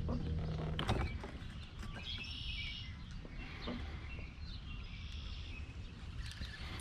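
Outdoor ambience on open water: a steady low rumble with a few light clicks near the start and two brief spells of high chirping.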